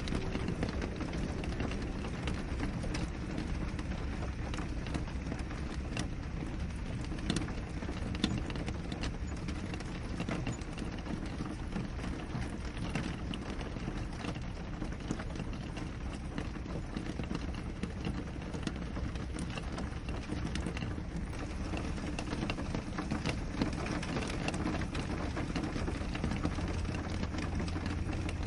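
Rain on a window: a steady hiss of rainfall, full and low, with many small drop ticks scattered through it.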